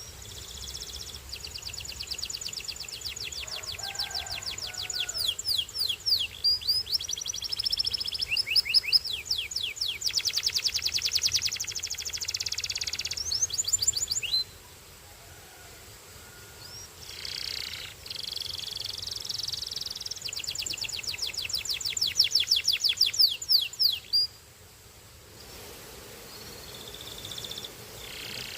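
Canary singing: long phrases of fast, high trills made of rapidly repeated notes, in two stretches of song with a pause of about three seconds between them.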